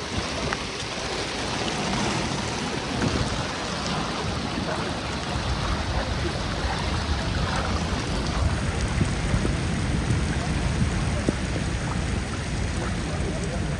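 Heavy rain falling steadily, a continuous hiss with a low rumble underneath.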